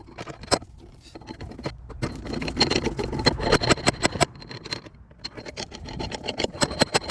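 Rapid metallic tapping and rattling on a car's steel body panel during dent-pulling work, in two bursts of many quick strikes with a short pause between them.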